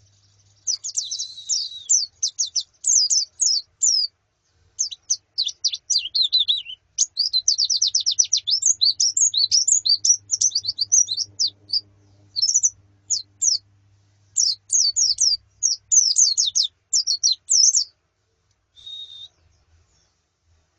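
Pleci (white-eyes, Zosterops) chirping and twittering in quick runs of high, sliding notes, in bursts with short gaps, falling silent near the end apart from one short call.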